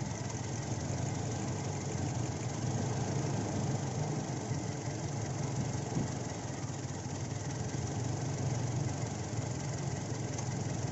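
Toyota Innova 1TR-FE four-cylinder petrol engine idling steadily with a misfire, which the mechanic traces to water getting into the spark plug area. A short click sounds about six seconds in.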